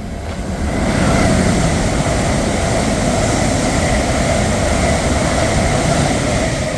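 Two coupled Class 805 bi-mode multiple units passing at speed: a loud rushing rumble of wheels on rail with a faint steady whine. It builds over the first second, then holds steady.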